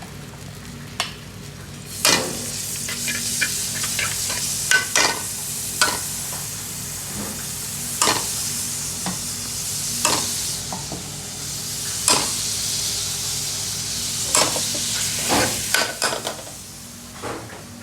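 Food sizzling and frying in a hot pan while a metal utensil stirs it, with a sharp clack against the pan roughly every two seconds. The sizzle sets in about two seconds in and fades near the end, over a steady low hum.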